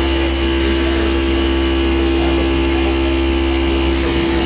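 Industrial feed-off-the-arm sewing machine running at a steady high speed, an even mechanical hum with a constant whine.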